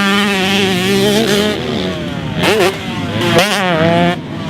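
Husqvarna TC125 125cc two-stroke motocross bike being ridden, its engine holding high revs, then dropping and revving up and down sharply a couple of times with quick throttle blips.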